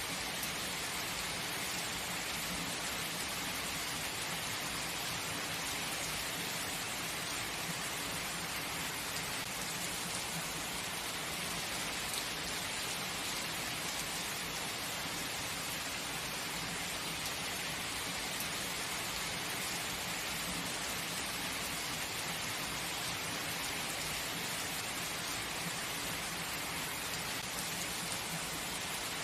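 Steady heavy rain falling, an even hiss of many drops that holds level throughout with no breaks or thunder claps.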